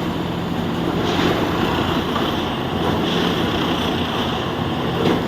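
Railway ballast tamping machine running steadily: a broad mechanical din over a low engine hum as it packs ballast under the sleepers.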